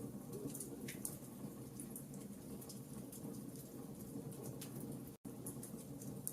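Wood fire crackling: scattered sharp pops and clicks over a steady low rumble. The sound cuts out for an instant about five seconds in.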